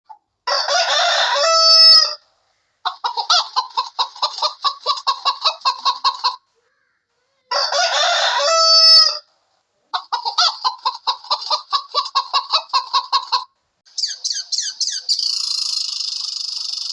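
A rooster crows twice, each crow followed by a run of rapid hen clucking. Near the end a different, steady high-pitched chirring sets in.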